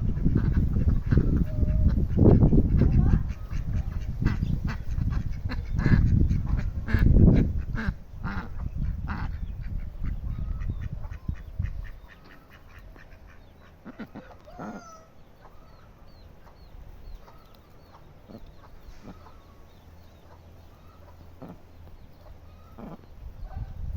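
Birds calling in short, separate calls, a few falling in pitch. For the first half a loud low rumble with many clicks lies under them, then it drops away and the calls stand out over a quiet background.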